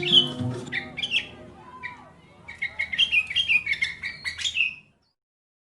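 Small songbirds chirping: scattered short chirps, then a fast run of repeated two-note calls near the end, before the sound cuts off suddenly. The tail of guitar music fades out in the first half second.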